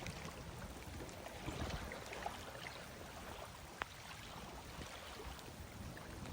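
Steady hiss of heavy rain with wind gusting on the microphone, scattered small drop ticks, and one sharp tick about four seconds in.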